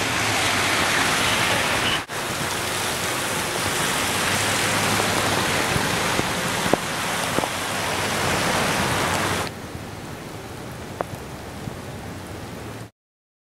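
Heavy rain pouring steadily onto pavement, a dense hiss with a few scattered drip ticks. It breaks off briefly about two seconds in, falls quieter about nine and a half seconds in, and cuts off near the end.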